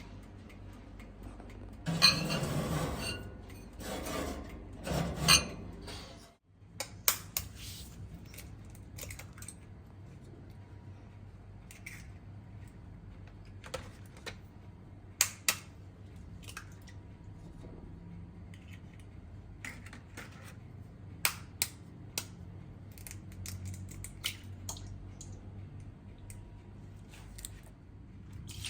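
Kitchen work: dishes and utensils clinking and knocking at scattered moments over a low steady hum, with two louder, noisier stretches in the first few seconds.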